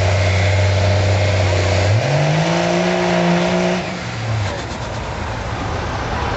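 Diesel pickup engine under full load pulling the sled. It holds a steady note, then its revs jump up sharply about two seconds in and stay high before falling away near four seconds, leaving a quieter engine sound.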